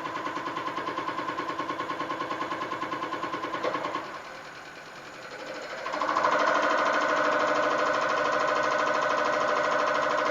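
EUI/EUP test bench running an automatic test on a Caterpillar C15 unit injector: the cam box motor drives the injector with a rapid, even pulsing and a steady hum. About 4 seconds in the sound dies down, and about 6 seconds in it comes back louder at a different pitch, as the bench moves on to the next speed step of the test.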